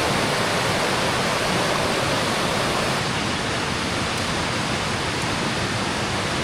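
Mountain creek water rushing over rocks, a steady, even roar of flowing water.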